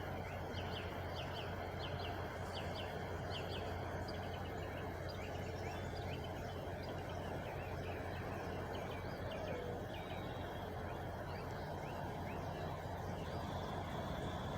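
Birds chirping, a quick run of short downward-sliding notes that thins out after the first half, over the steady low hum of an idling truck engine.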